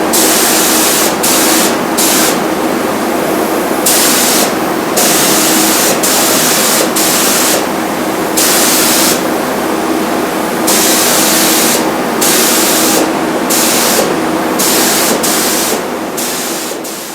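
HVLP spray gun spraying primer in short passes: bursts of air hiss start and stop about once a second over a steady hum from the air supply.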